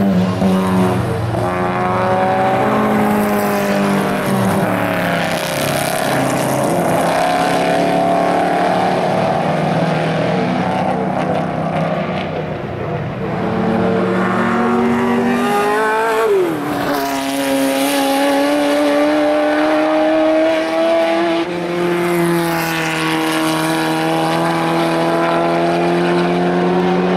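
Classic 1960s racing cars with loud, unsilenced engines running hard past the trackside, several at once, their engine notes climbing steadily in pitch as they accelerate. About 16 seconds in, one car's note drops sharply as it goes by, and then the next cars' notes climb again.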